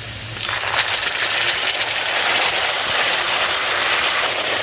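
Sizzling in hot oil in a kadhai of frying onions and green chillies, starting abruptly about half a second in as tomato ketchup goes into the pan, then holding steady.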